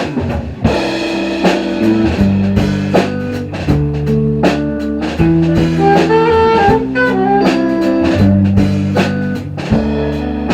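Live band playing the instrumental intro of a song: drum kit keeping a steady beat under sustained low notes, with a higher melodic lead line in the middle; no singing yet.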